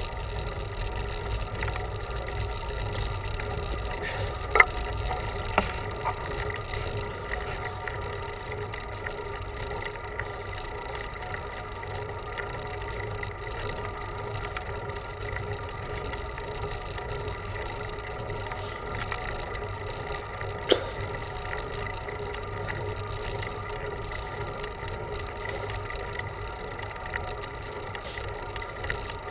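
Steady noise of a road bicycle being ridden: tyre hum and drivetrain sound over a low rumble of wind, with sharp clicks about four and a half seconds in, again a second later, and once about two-thirds of the way through.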